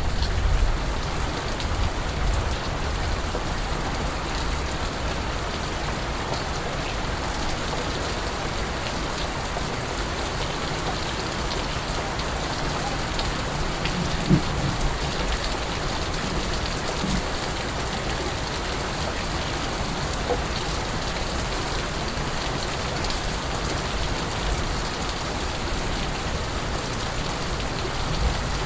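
Steady rain falling, an even hiss with scattered drips, and a soft low thump about halfway through.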